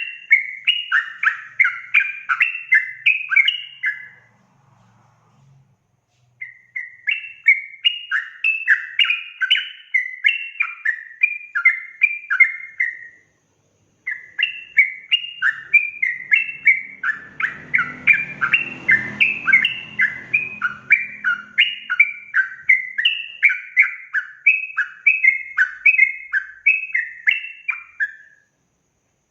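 Yellow-vented bulbul (trucukan) singing a fast, continuous run of short bubbly notes, several a second. It sings in three long bouts with brief pauses about four seconds in and again near the middle. A faint low rumble runs under the song for a few seconds past the middle.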